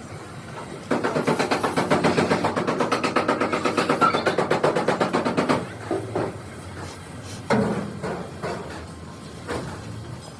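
A rapid run of knocks, about eight a second for nearly five seconds, then a few scattered knocks and one sharper hit.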